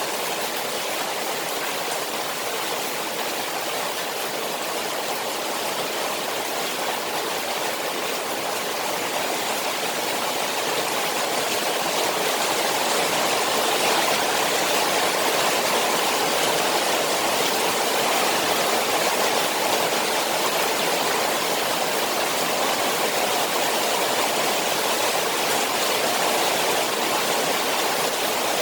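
Rain falling on a koi pond: a steady, even rush of water that grows slightly louder about ten seconds in.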